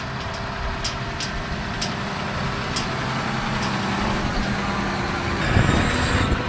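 An engine running steadily with a low hum, with a few sharp clicks in the first few seconds and a louder noisy swell about five and a half seconds in.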